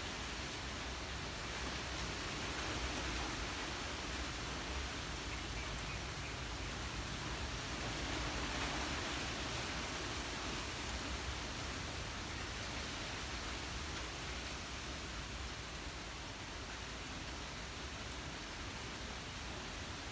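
Gentle breeze rustling through trees: a steady hiss that swells a little twice and then eases.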